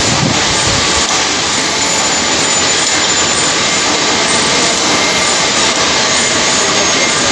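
Heavy-duty lathe running: a loud, steady rushing machine noise with faint thin whines above it.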